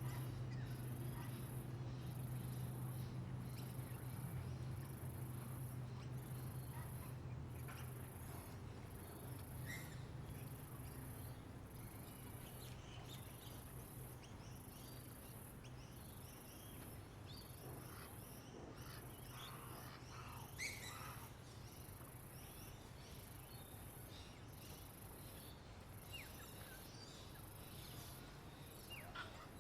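Outdoor bird and insect ambience: an insect shrilling in high, evenly spaced pulses about once a second, with scattered short bird chirps, one sharper call about two-thirds of the way through. A low steady hum underneath fades out over the first third.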